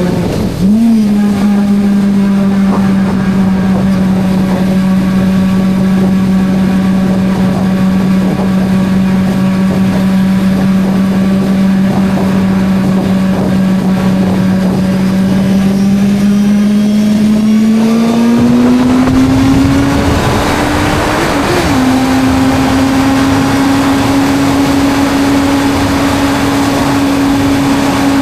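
Suzuki GSR 600 inline-four engine running at a steady cruise under the rider, with wind rushing past. Near the start the pitch dips and comes back, as with a quick gear change. About two-thirds through it rises as the bike speeds up, blips once, then holds steady at a higher pitch.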